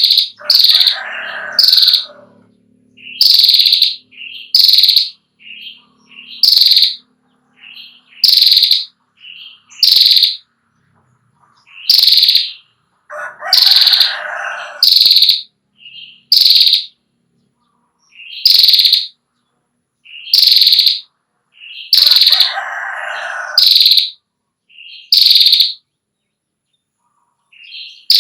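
Female prenjak klawu (a prinia) calling: loud, sharp high chirps, often in pairs, repeated every second or two. Three longer buzzy rattles come between them, near the start, midway and about two-thirds through: the drawn-out 'ngetir' call.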